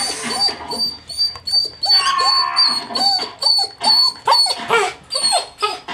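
A pet dog whining and yelping over and over in short rising-and-falling cries, the sound of a dog begging for attention, while pet lovebirds keep up a quick high chirping.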